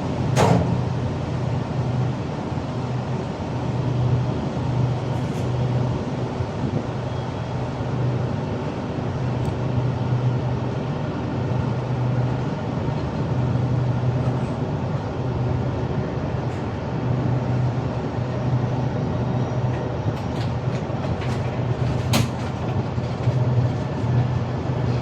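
Train running along the track: a steady rumble with a low drone that swells and fades, and two sharp clicks, one just after the start and one near the end.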